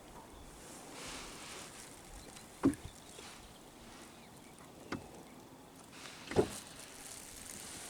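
Three short knocks on a fishing boat, over a faint steady background of wind and water.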